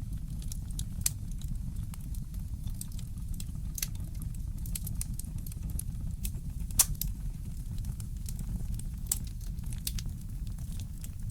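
Wood fire crackling in a fireplace: irregular small pops and snaps over a low, steady rumble, with a louder pop about seven seconds in.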